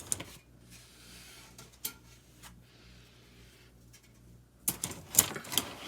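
Plastic spreaders being pulled out of a pleated furnace filter's paper pleats: a few light clicks, then a burst of scraping and rustling about five seconds in.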